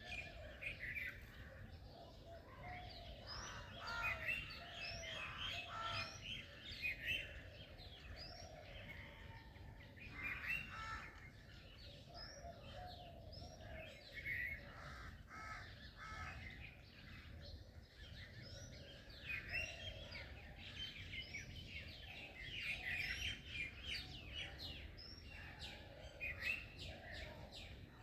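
Several birds chirping and singing in quick, overlapping calls, over a faint steady low rumble.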